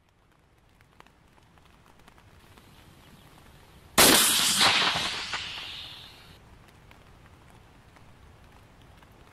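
A loud, sudden blast about four seconds in, followed by a few sharp cracks over the next second and a half, the sound dying away over about two seconds.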